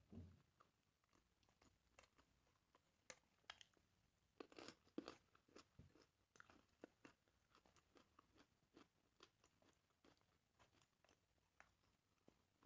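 Close-up eating sounds: a person chewing and crunching food, with short, sharp crunches at irregular intervals and a cluster of them about four to five seconds in.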